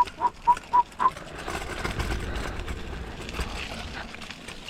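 Mini bike rolling down a dirt trail: a steady low rumble of tyres and wind noise. In the first second there is a quick run of about five short, even squeaks.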